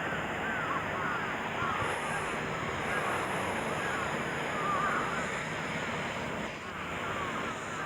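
Sea waves washing against a breakwater, with wind on the microphone, and many faint high chirps repeating quickly over the wash.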